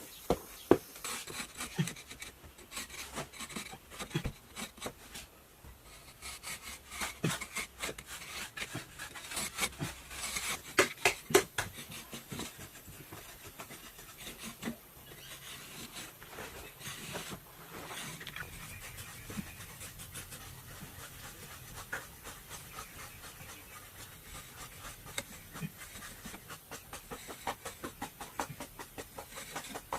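Irregular scraping and rubbing, with sharp knocks and taps scattered through and a cluster of louder knocks about ten to eleven seconds in.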